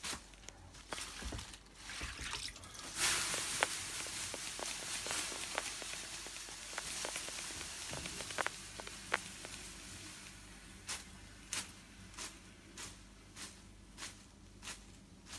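Banya steaming: steady soft strokes, a little under two a second, from a bath whisk being patted. About three seconds in, a hiss of water on the hot stove stones starts suddenly, then fades over some seven seconds, before the strokes come back near the end.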